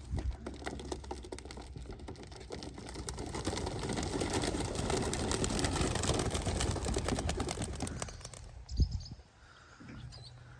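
A flock of homing pigeons taking off together, a rapid clatter of many wingbeats that swells over the first few seconds and fades away at about eight and a half seconds. A single low thump follows about a second later.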